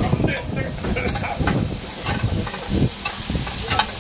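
Chopped tomato and onion tipped into hot oil tempering in a pan over a high gas flame, sizzling, with a spatula stirring and scraping against the pan in short strokes.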